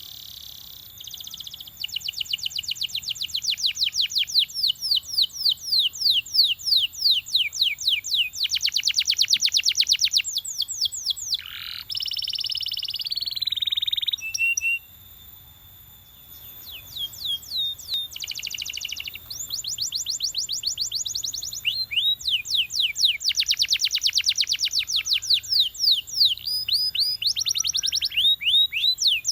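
Belgian canary singing: long runs of fast repeated high notes (trills), with a held sweeping note and a short pause about halfway through.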